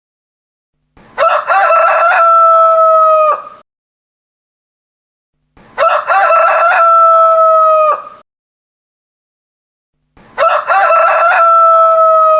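Rooster crowing, three crows about four and a half seconds apart with silence between. Each crow is the same shape, ending in a long held note that drops off at the end, the last one cut off at the end.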